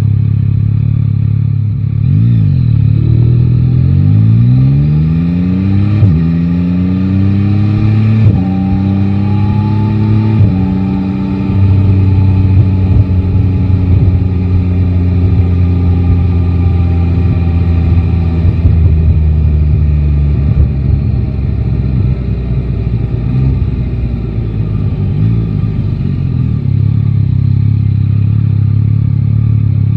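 Yamaha Tracer 9 GT's three-cylinder engine pulling away and accelerating through four quick upshifts: the pitch climbs and drops at each shift. It then holds a steady cruise, eases off to a low rumble around twenty seconds in, and gives a short blip of throttle near the end.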